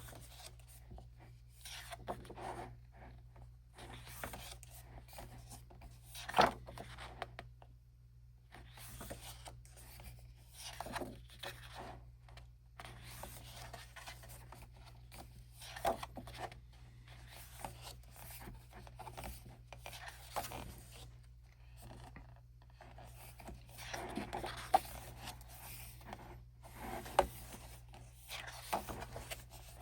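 Album photobook pages being turned and handled: intermittent paper rustling and sliding, with a few sharp clicks from the pages or book.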